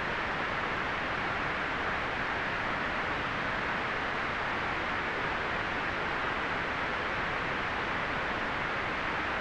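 Steady white noise: an even, unchanging hiss, fullest in the upper-middle range.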